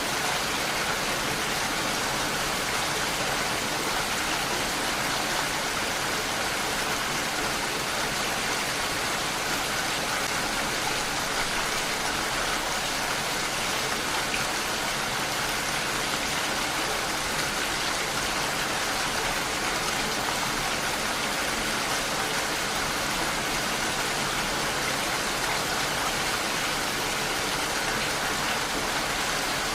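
Steady rainfall, a constant even hiss of rain coming down, with no change in strength.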